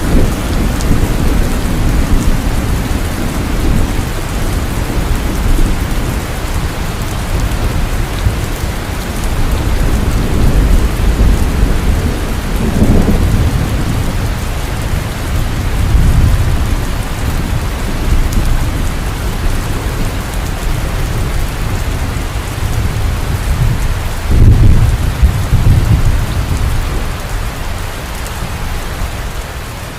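Heavy rain falling steadily as a dense hiss, with thunder rumbling low underneath. The rumble swells several times and is loudest about three-quarters of the way through.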